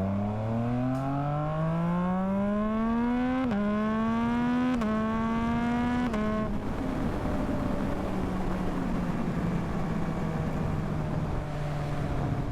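Yamaha MT-09's three-cylinder engine accelerating, its pitch climbing through the gears with three upshifts about three and a half, five and six seconds in, then running at a steady cruise.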